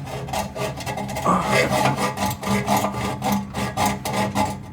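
A saw cutting through the old exhaust pipe, with a rapid rasping back-and-forth run of strokes.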